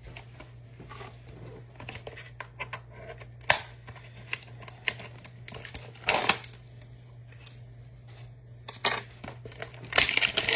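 Hands opening a trading-card hanger box and its pack wrapper: cardboard and foil tearing and crinkling in short bursts with scattered clicks, the loudest stretch of crinkling near the end, over a steady low electrical hum.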